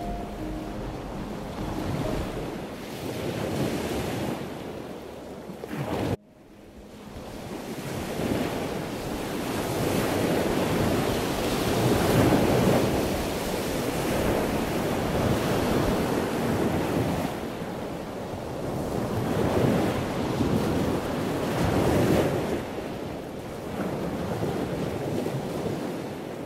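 Wind buffeting the microphone on an anchored sailboat's cockpit, a rushing noise that swells and fades in gusts every few seconds. It cuts off abruptly about six seconds in and builds back up.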